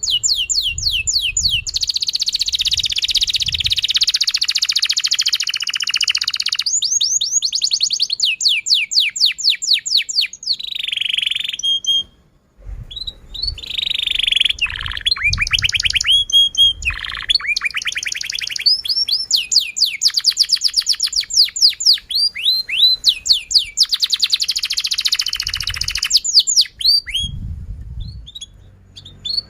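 Domestic canary singing a long, continuous song of rapid trills: fast runs of repeated chirps sweeping in pitch, broken by short pauses about twelve seconds in and again near the end.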